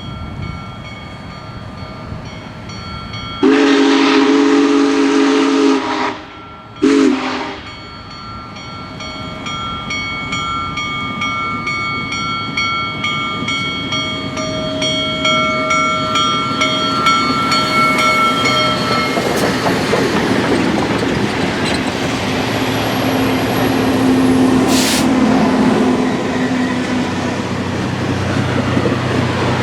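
Union Pacific Big Boy 4014's steam whistle blows one long chord of several tones a few seconds in, then a short blast about a second later. The train then comes closer, its running noise building and staying loud for most of the rest.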